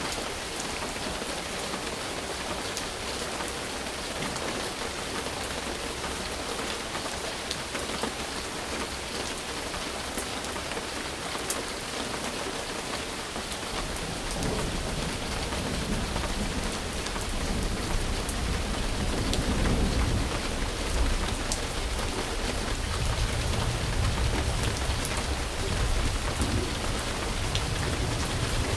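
Steady rain falling, an even hiss with fine drop ticks. About halfway through, a low rumble builds underneath and the sound grows a little louder.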